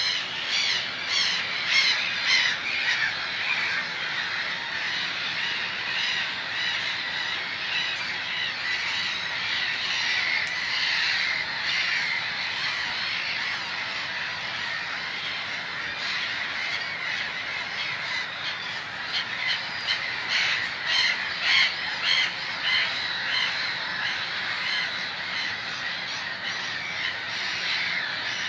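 A large flock of birds calling over one another, a dense continuous chorus of harsh squawking calls with busier bursts near the start and about two-thirds of the way through.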